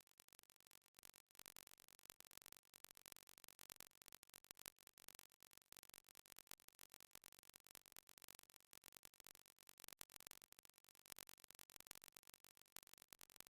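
Near silence: a faint, fast crackling hiss.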